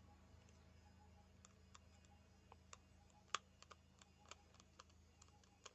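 Faint, scattered small clicks and taps of the LED bulb's parts being handled as the replacement driver circuit board is fitted into the housing, with one sharper click a little past the middle, over a low steady hum.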